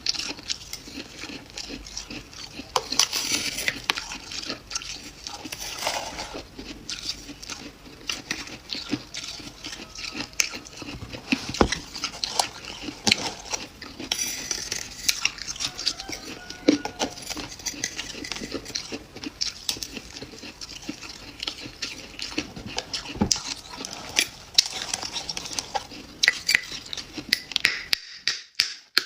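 Freezer frost being scraped loose and crunched: a dense, irregular run of crisp crackles and sharp clicks, which stops briefly near the end.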